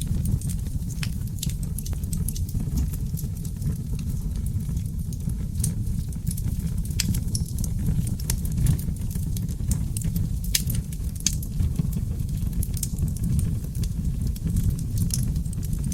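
Wood fire of oak logs burning in a fireplace: irregular sharp crackles and pops over a steady low rumble of the flames.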